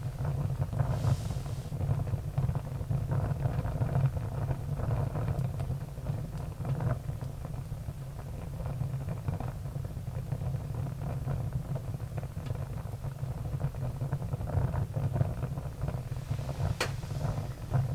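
Wood fire burning with a steady low rumble and constant crackling, with a few sharper pops, one louder pop near the end.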